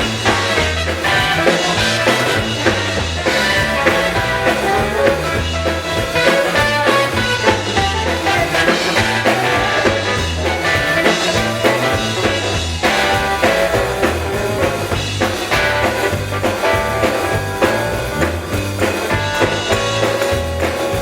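Gospel band playing with a steady beat: drum kit and a repeating bass line under the other instruments.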